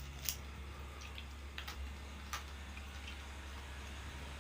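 A few faint, sharp clicks, spaced irregularly, over a low steady electrical hum.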